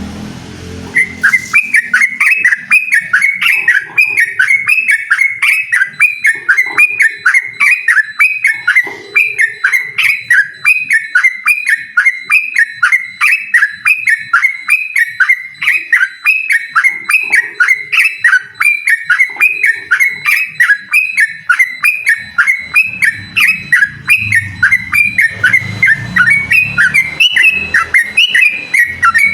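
Yellow-vented bulbul singing a long unbroken run of short, repeated notes, about three a second, in the fast 'ropel' style of a bird calling out a rival. The song starts about a second in.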